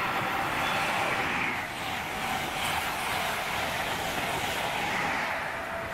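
High Speed Train (Class 43 diesel power car hauling Mk3 coaches) passing at speed: a steady noise of the diesel engine and wheels on the rails, the engine note dropping in pitch about a second and a half in as the power car goes by.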